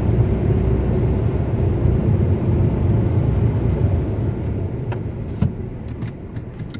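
Onboard blowers of a Ryko Softgloss Maxx car wash running with a steady low rumble, then winding down from about four seconds in as the wash shuts down at the end of its cycle. A few sharp clicks near the end.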